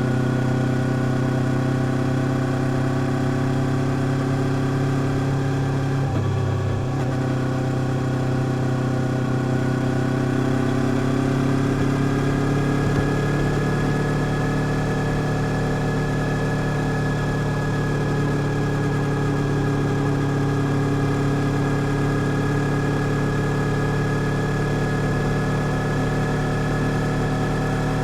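Vehicle engine running steadily while driving, with a brief break in its note about six seconds in. From about ten seconds in, the engine pitch climbs slowly and then holds higher.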